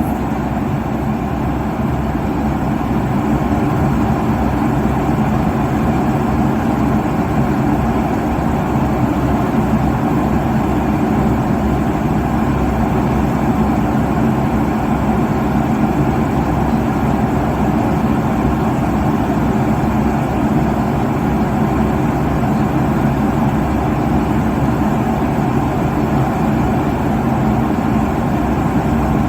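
Steady, low-pitched cabin noise of an airliner cruising at altitude: the even drone of the engines and the air rushing past the fuselage, heard from inside the cabin, with no change in level.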